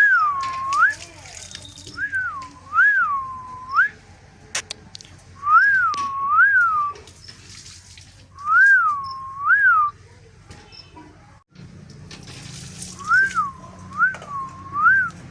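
Parrot whistling a repeated tune: clear whistles that dip in pitch and rise again, in five short phrases of two or three notes with pauses between.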